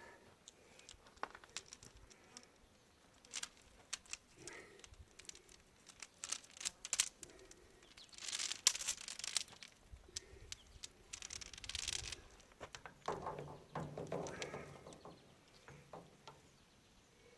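Scattered clicks, clinks and rustling as a new chain is handled and worked into a baler, with a few louder clattering spells in the middle.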